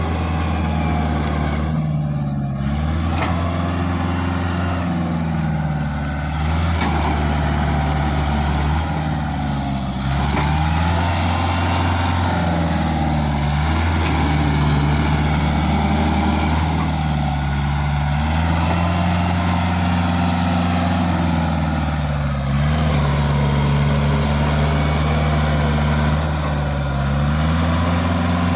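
Kubota MU45DI 4x4 tractor's diesel engine running steadily, its pitch dipping briefly and recovering every few seconds as the engine speed changes.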